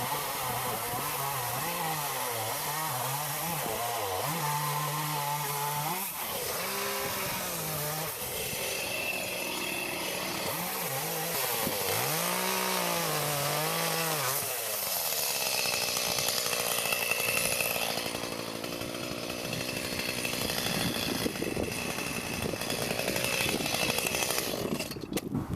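Two-stroke chainsaw sawing through a log, its engine pitch rising and dipping repeatedly as the chain bites and frees in the cut, cutting off shortly before the end.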